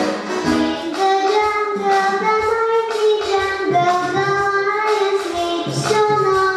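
A female voice, likely a young singer, sings a melody in long held notes over instrumental accompaniment with a steady low beat.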